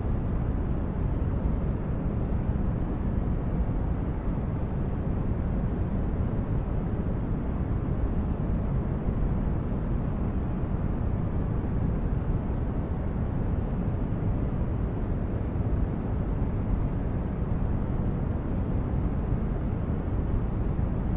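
Sci-fi spaceship ambience: a steady, deep, brown-noise-like rumble of a starship's engines and air, even and unchanging, with no distinct events.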